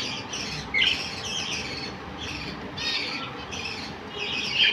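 Birds chattering and squawking in a busy run of short, scratchy calls, with a louder squawk about a second in and another near the end.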